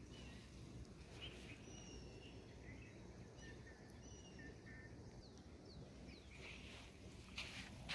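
Faint outdoor ambience with several short, thin bird chirps in the first half, then a brief rustle near the end.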